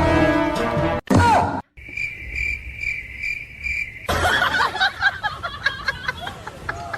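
Music cuts off about a second in, followed by a short gliding sound. Then comes a steady high chirping that pulses about two or three times a second for about two seconds, and after it a busy jumble of short chirps and squeaks.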